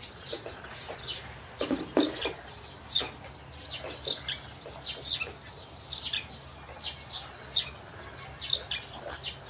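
Small birds chirping over and over, short high chirps coming one or two a second. A brief lower sound stands out about two seconds in.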